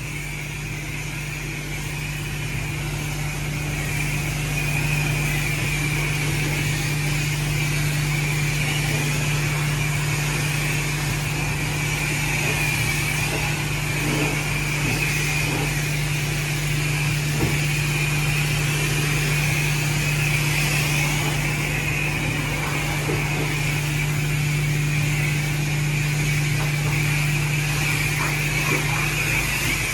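Self-service car wash pressure wand spraying water, a steady hiss over a constant low hum.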